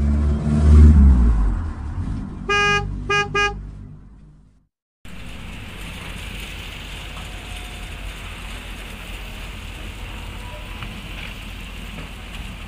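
A low rumble, then a car horn beeping three times, one longer beep and two short ones. After a short break comes steady outdoor noise with a low rumble.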